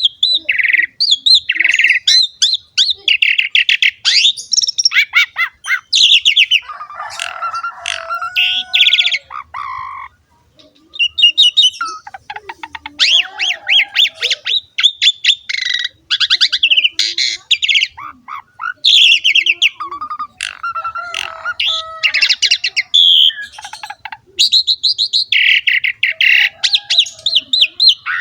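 Javan pied starling (jalak suren) in full song: a long, varied run of rapid clicking rattles, whistles and harsh chattering notes, with one short pause about ten seconds in.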